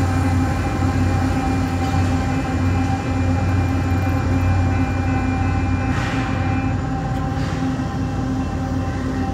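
Union Pacific diesel locomotive at the rear of an autorack freight train rumbling away along street track, its low drone slowly fading. Steady ringing tones from the grade-crossing warning signal run over it.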